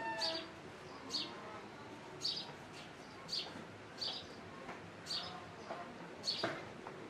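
A bird chirping over and over, a short high call about once a second, with a single sharper knock-like sound near the end.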